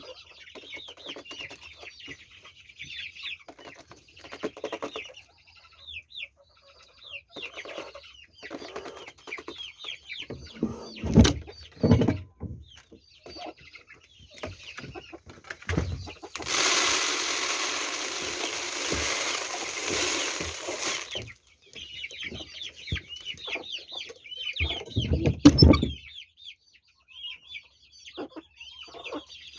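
Chickens clucking and calling in short, busy bursts, with a few loud thumps and, about halfway through, a loud rush of noise lasting about five seconds.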